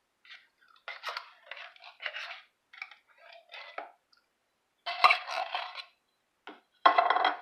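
Metal cans and kitchen utensils being handled: a run of irregular clinks, scrapes and crunching noises, with the loudest clatters about five seconds in and near the end.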